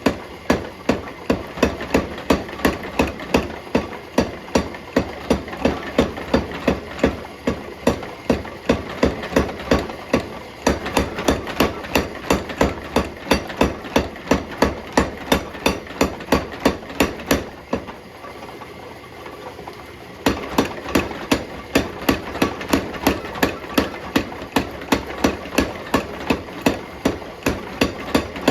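Hammer blows forging a bar of alloy steel: a steady run of sharp strikes at about three a second, stopping for about two seconds past the middle, over a steady machine hum.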